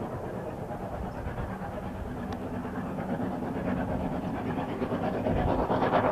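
Steam locomotive working, its chuffing exhaust growing louder toward the end.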